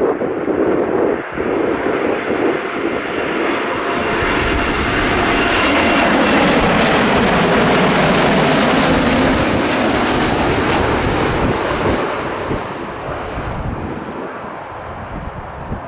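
Engines of a fixed-wing aircraft passing the airfield, building to a peak about six to ten seconds in and then fading away, with a high whine and a sweeping pitch as it goes by. Gusty wind buffets the microphone at the start.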